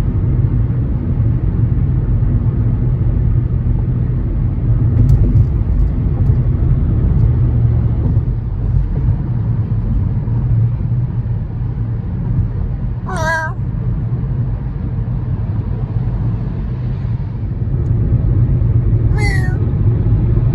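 Steady low road and engine rumble inside a moving car. Two short, wavering high-pitched calls sound about 13 seconds and 19 seconds in.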